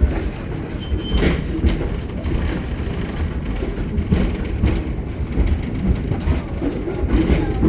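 Steam train passenger car rolling along the track: a steady low rumble with occasional knocks and clatter from the wheels.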